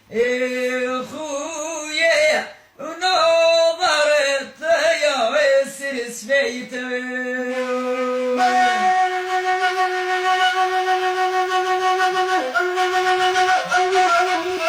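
Traditional Bedouin music: a melismatic line with long held notes and ornaments, then, about eight seconds in, a wind instrument takes over with a steady, sustained melody of long held notes.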